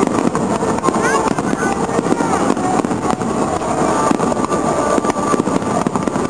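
Fireworks display: a dense, continuous barrage of bangs and crackling from many shells bursting at once, with voices mixed in.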